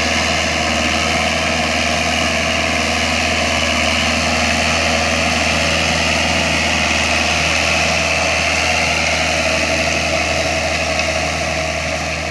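VST mini tractor's diesel engine running steadily at idle, getting a little quieter near the end.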